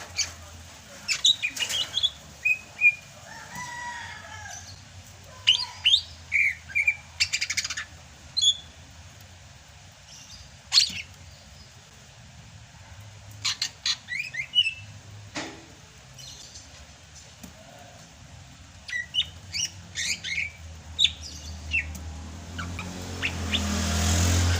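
Sumatran cucak hijau (green leafbird) singing in bursts of sharp chirps and short whistled notes, with pauses between the phrases.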